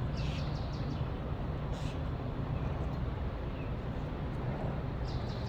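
A steady low rumble, with a few brief high chirps near the start, about two seconds in, and again near the end.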